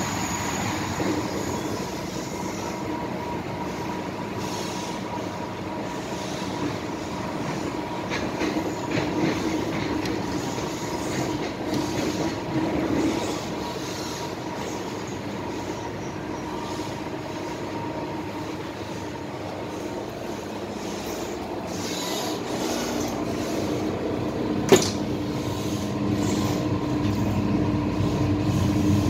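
MTR Island Line M-Train running along the track: steady wheel-on-rail noise with a low hum and a higher whine from the train's equipment, swelling and easing with speed. A single sharp click about 25 seconds in.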